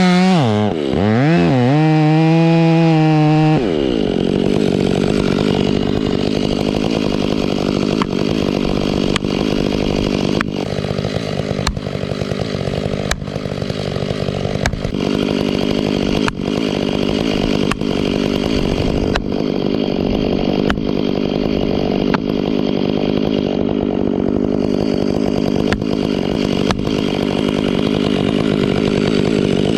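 Gas chainsaw running at high revs, its pitch dipping and recovering in the first few seconds, then running steadily under load in a felling cut through a large trunk. Sharp knocks come about every second and a half.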